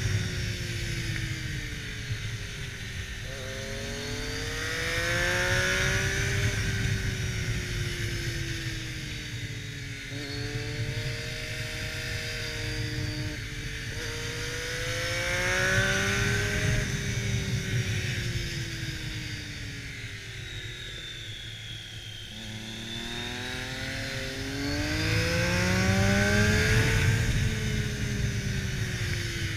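Triumph Daytona 675R's three-cylinder engine through an aftermarket exhaust, revving up and easing off again and again as the bike accelerates out of corners and rolls off into the next, with a rush of wind noise that swells along with it. Loudest three times.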